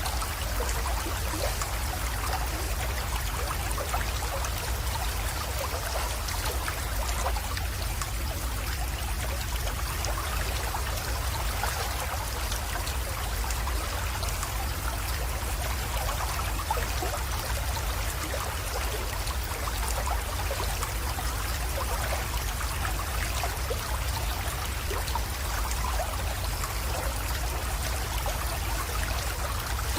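Small spring-fed creek flowing and trickling steadily into a pond, with constant fine splashing and a low, even rumble underneath.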